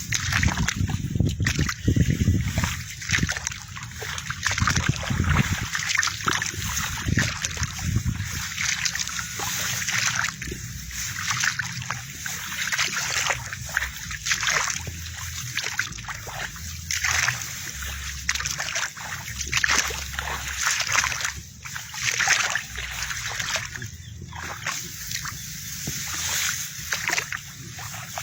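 Water splashing and sloshing in an uneven series of short strokes, from wading through a wet rice paddy.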